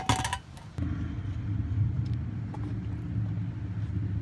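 A brief clatter, then a steady low rumble.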